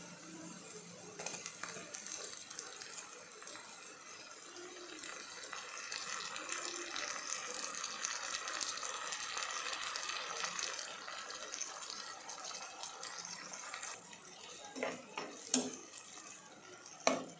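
Chopped vegetables and green chilies sizzling in hot oil in a pot, the sizzle growing louder as chopped tomatoes are tipped in. Near the end a steel ladle clinks against the pot a few times as the mixture is stirred.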